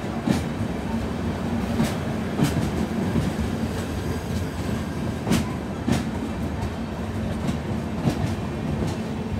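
Express train's passenger coaches passing close by at speed: a steady rumble of wheels on the track, broken every few seconds by a pair of sharp clacks as each coach's bogies cross a rail joint.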